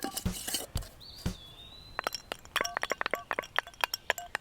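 A stick rattling inside a shaken, lidded glass jar: a few knocks, then a quick run of clinks against the glass from about halfway. A bird whistles a short tone just before the clinks start.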